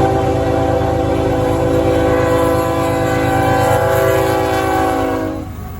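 Amtrak diesel locomotive's air horn blowing one long multi-note chord over the rumble of the engine, the pitch dropping slightly partway through as the locomotive passes. The horn cuts off near the end, leaving the engine and train running.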